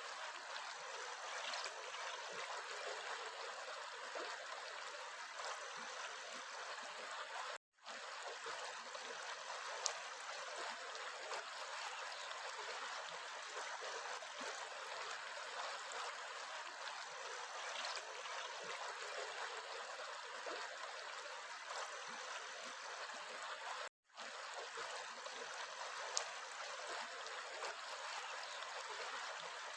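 Steady, even rush of running water, like a flowing stream, cutting out for an instant twice, about eight seconds in and again near twenty-four seconds.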